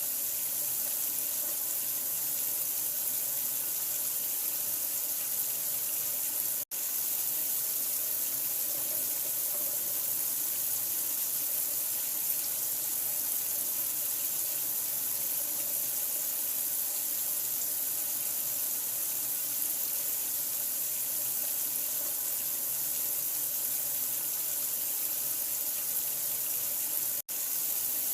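Steady running water, an even hiss with most of its energy in the high range, like a tap running into a sink. It cuts out for an instant twice, about seven seconds in and again near the end.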